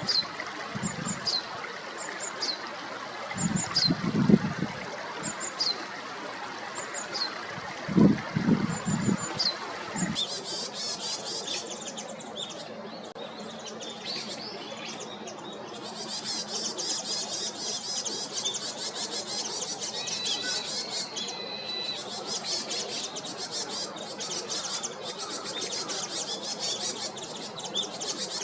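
Japanese tit calling: short thin notes sliding down in pitch, about one a second, over a steady hiss, with a few low thumps. About ten seconds in, this gives way to varied tit calls: dense, high chattering, with one held whistle near the twenty-second mark.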